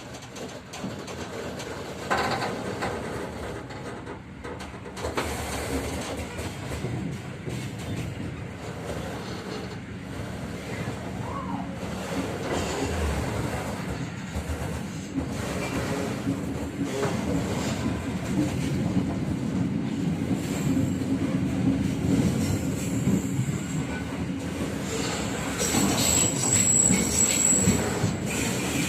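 Local passenger train running along the track, with steady rumble and rattle from the wheels and rails that grows steadily louder. A high wheel squeal comes in near the end.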